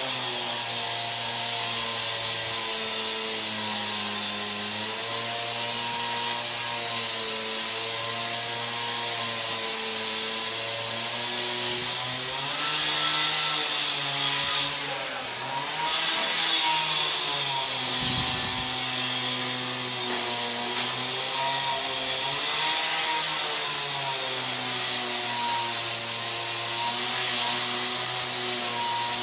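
Small engine-driven power tool at pavement works running continuously, its engine pitch drifting up and down, with a harsh high hiss over it that cuts out briefly about halfway through.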